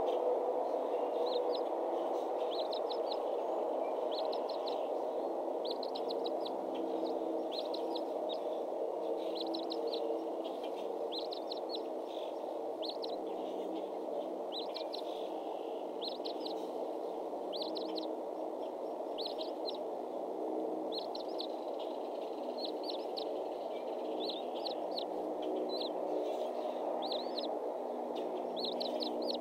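A bird chirping in quick clusters of two to four high notes, about one cluster a second, over a steady low background rush.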